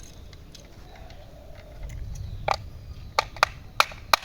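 Sharp plastic clicks and taps, about five in the last two seconds, from rotor blades being handled and fitted onto a plastic toy helicopter.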